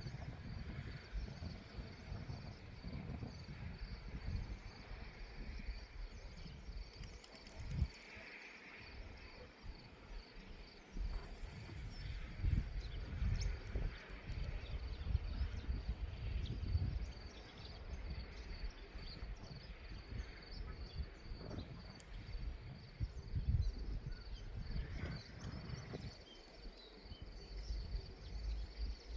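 Wind buffeting the microphone in uneven gusts, with a faint, steady, high-pitched chirring of insects behind it.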